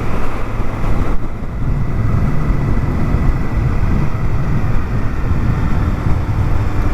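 Wind rushing over the microphone, with the Honda Africa Twin's parallel-twin engine running underneath at riding speed. The sound is a heavy, steady rumble, and the higher hiss eases about a second in.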